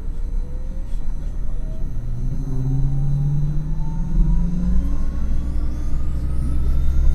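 MAN NL253 Hybrid city bus under way: a steady low rumble that grows louder about four seconds in, with the whine of its electric drive rising steadily in pitch as the bus gathers speed.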